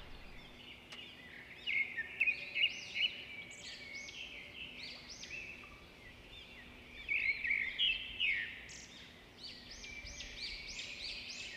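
Small birds chirping: rapid runs of short rising-and-falling chirps, in a cluster about two seconds in and again from about seven seconds on, over faint steady background hiss.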